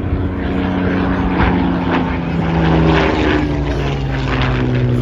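A propeller-driven aircraft's engine passing overhead, its note dropping in pitch about three seconds in as it goes by.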